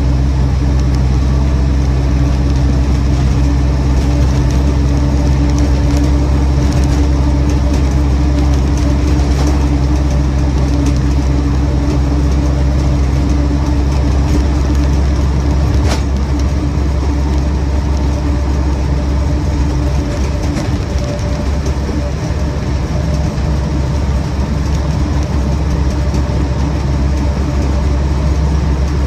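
Land Rover Series 1 88-inch's 2-litre petrol engine running steadily on the move, heard from inside the cab with road and drivetrain noise. The engine eases off slightly about two-thirds of the way through, and there is a single sharp click about halfway.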